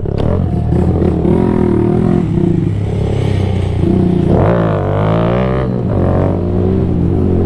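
Small single-cylinder 125 cc four-stroke mini bike engine running under throttle on a trail ride, revs rising and falling as the throttle is worked, with a sharp climb and drop a little past halfway.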